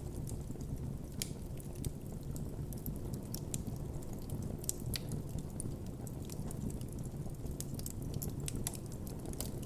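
Campfire burning: a steady low rumble with frequent, irregular sharp crackles and pops from the burning wood.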